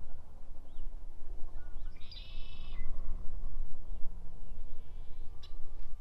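Farmyard ambience under a steady low rumble, with a short animal call about two seconds in and a fainter one near the end.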